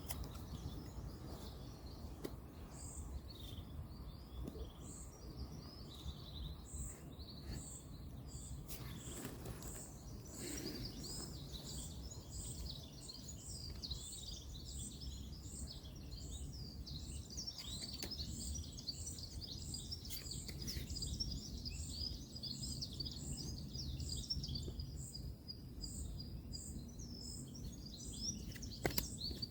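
Small birds chirping and twittering, with a high note repeated evenly a little over once a second, over a steady low rumble of distant road traffic.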